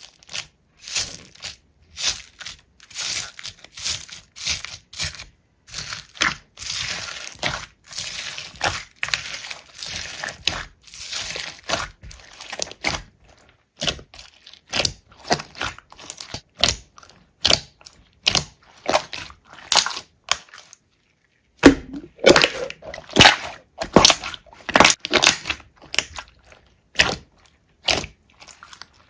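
Hands squeezing, poking and stretching slime, making irregular sticky crackling and popping clicks, with a brief pause about three-quarters of the way through.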